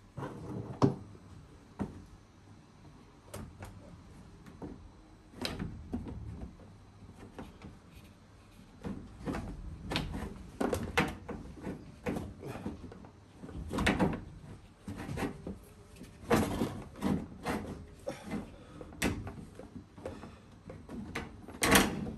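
Irregular knocks, clicks and clatters of parts being handled and set down during washing-machine disassembly, loudest about a second in and near the end.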